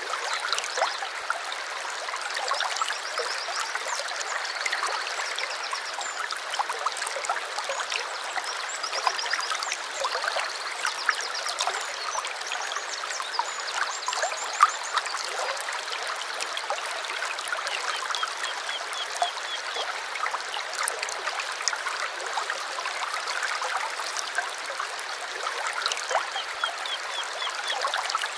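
A small stream trickling and babbling steadily over stones. Birds sing over it in short, rapid trills of repeated high notes, several times through.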